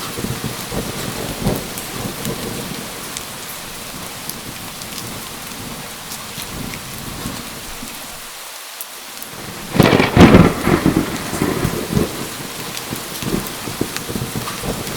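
Steady rain with low rolling thunder, and a loud thunderclap about ten seconds in that rumbles away over the next two seconds.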